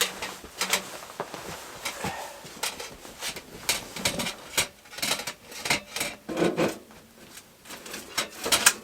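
Stove chimney pipe and chimney jack guard being handled and fitted together: a run of irregular scrapes, clicks and knocks.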